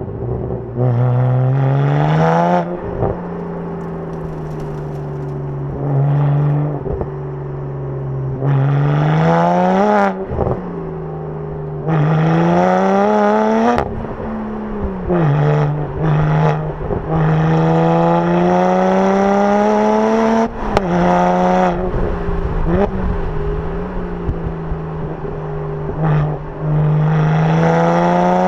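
BMW 1M Coupé's twin-turbo straight-six running through a free-flowing aftermarket exhaust: titanium mufflers, a straight-piped midpipe and a 200-cell sport cat. It accelerates in several pulls, the note rising and then dropping sharply at each gear change, with a few sharp pops at the shifts and steady cruising stretches between.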